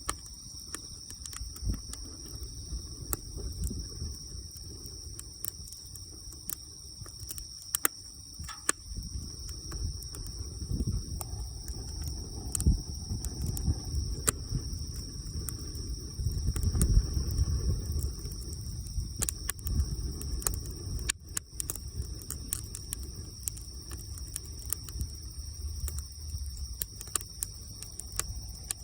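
Wood bonfire crackling, with irregular sharp pops over a low rumble that swells about two-thirds of the way through. A steady high-pitched tone runs underneath.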